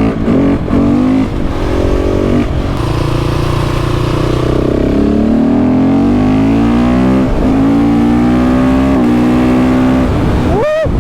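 KTM 690 SMC R's LC4 single-cylinder engine accelerating hard under load. The engine note climbs and breaks off briefly at each upshift, then holds steady. Near the end there is a sharp, quick rev rise.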